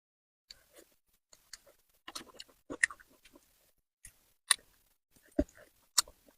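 Close-miked mouth sounds of someone eating spicy braised fish: irregular wet smacking and sharp clicks, with short silences between them.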